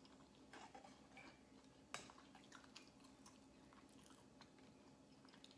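Faint chewing of a mouthful of sushi close to the microphone: soft wet mouth clicks and crackles, with one sharper click about two seconds in.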